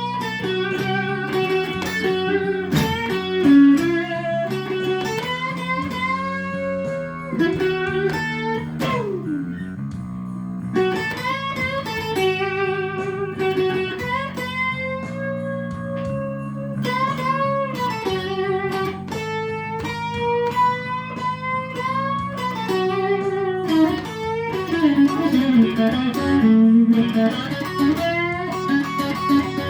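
Electric guitar playing a slow blues solo, with notes bent up and down and a long slide downward about nine seconds in, over a steady low accompaniment.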